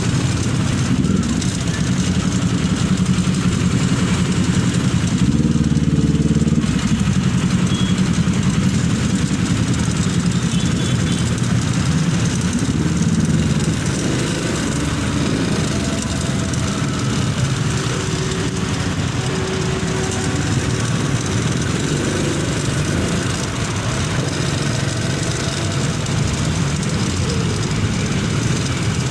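Motorcycle engine running under way, a steady low engine note under a constant rush of noise; about five seconds in the note briefly rises and gets louder.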